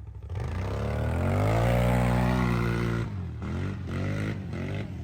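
ATV engine revving up under throttle, holding high revs for about a second, then dropping off about three seconds in, followed by several quick throttle blips near the end.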